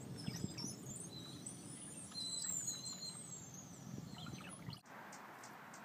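Birds giving high, squeaky whistled calls and chirps in quick succession over a low rumble. About five seconds in the sound cuts to a quieter background with faint, evenly spaced ticks.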